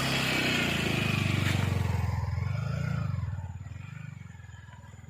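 A vehicle engine running, loud for about three seconds and then fading away.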